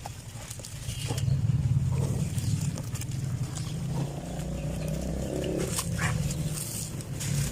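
Dry sand-cement clumps crumbling, with scattered crunchy crackles over a low rumbling sound that starts about a second in.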